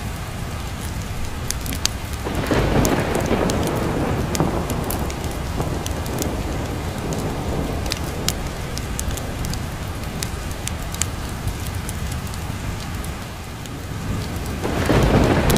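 Steady rain with thunder rumbling twice, swelling about two seconds in and again near the end, over scattered sharp ticks and crackles.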